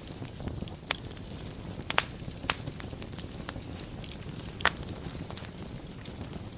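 Fire burning in a fireplace: a steady low rumble and hiss with light crackling. Sharp pops come about a second in, twice around two seconds in and again at about two and a half seconds, and the loudest pop comes near five seconds in.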